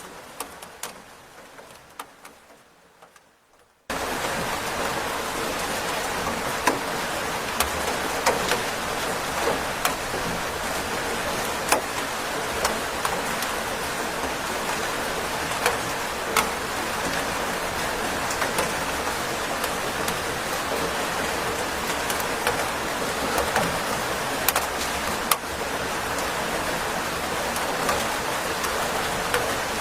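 Steady rain, an even hiss with scattered sharp drop ticks. In the first seconds it is faint and fading, then about four seconds in it cuts in suddenly at full strength and holds steady.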